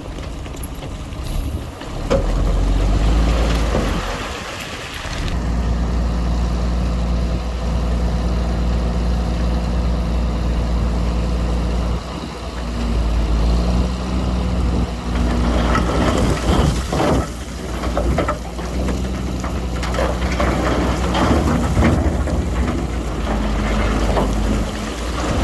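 Heavy diesel earthmoving machinery running with a steady, deep engine rumble, broken by a few sudden changes. Over the second half a rougher clatter joins the engine noise.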